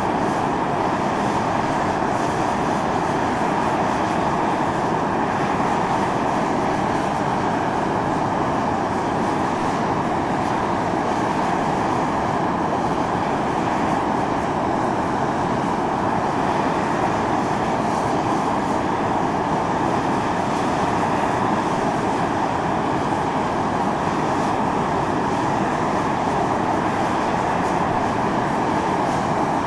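Volcanic fumarole venting: steam and sulphurous gas jetting out of a vent in a steady, loud hiss and rush.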